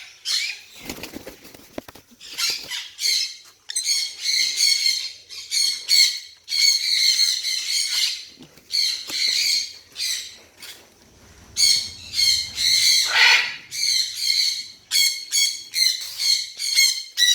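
Young parrot chicks (African grey and sun conure) giving short, harsh squawking calls over and over, with a brief flurry of wing flapping about a second in.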